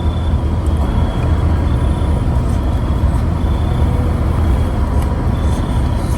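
Steady low rumble of an idling vehicle engine, with a faint steady hum above it.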